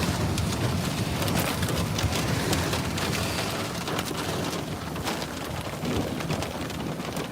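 Heavy storm rain pelting the outside of a truck, a steady dense hiss dotted with many sharp individual drop strikes on the roof and windshield.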